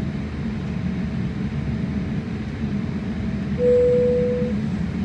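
Steady low rumble of engine and air noise inside a jet airliner cabin, with a single chime tone about three and a half seconds in that fades over about a second.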